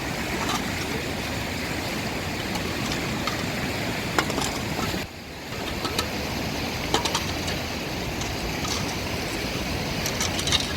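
Steady rushing of rain or floodwater, with scattered sharp taps and a short dip in level about five seconds in.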